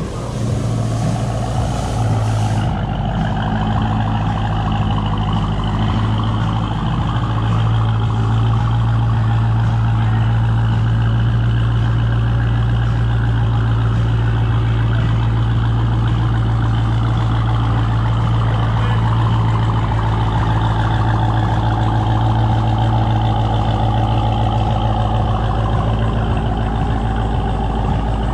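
A car engine idling steadily, an even low hum that holds without revving.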